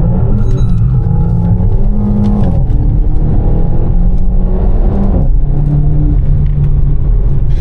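Renault Mégane RS Trophy's 1.8-litre turbocharged four-cylinder engine pulling hard. The revs climb, fall sharply about two and a half seconds in, climb again, fall about five seconds in, then hold steady.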